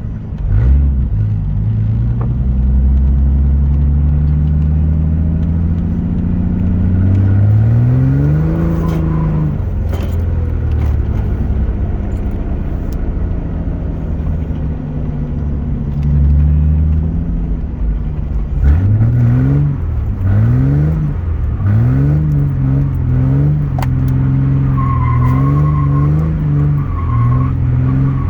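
Straight-piped V6 Ford Mustang exhaust, running low, then climbing in pitch once about a third of the way in. From about two-thirds through it revs up and drops again and again in short bursts, as in snow drifting.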